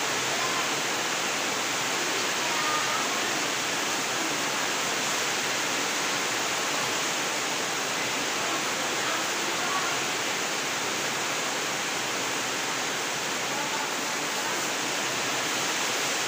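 Heavy rain falling steadily, an unbroken hiss with faint voices underneath.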